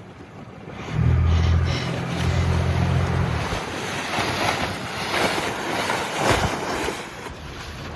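Wind buffeting the microphone and water washing around a boat, with a low steady hum from about one second in that stops abruptly a couple of seconds later.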